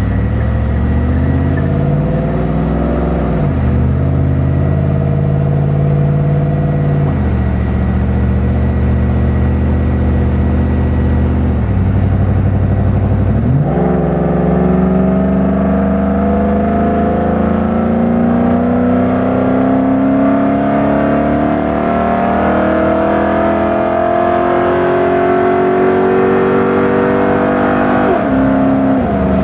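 Ford Coyote 5.0 V8 exhaust through a long Magnaflow muffler under moderate acceleration onto a freeway. The note climbs and drops in pitch at each upshift, about three, seven and thirteen seconds in, then climbs slowly for a long stretch before another drop near the end.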